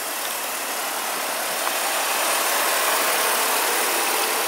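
2005 Nissan Maxima's 3.5-litre V6 idling smoothly, a steady running sound that grows a little louder over the first couple of seconds.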